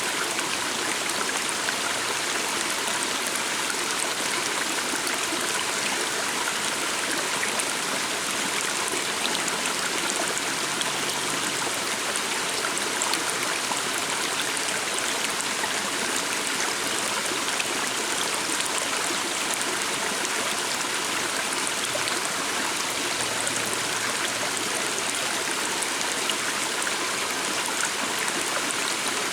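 A small stream flowing with a steady rush and trickle of water, unchanging throughout.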